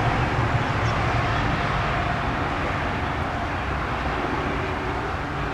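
Steady low rumble and hiss of distant engine noise, slowly easing off.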